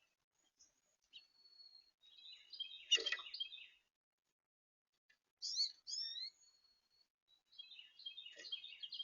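Small songbirds calling at a bird feeder: thin high whistled notes and bursts of twittering chatter, with a louder knock about three seconds in.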